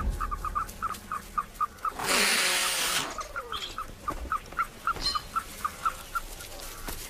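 A bird's call repeated in a rapid, even series of short high peeps, about five a second, that stops near the end. About two seconds in, a loud rushing noise covers it for about a second.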